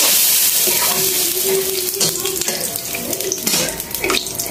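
Meat sizzling in hot oil and broth in a wok: a steady hiss, loudest in the first second.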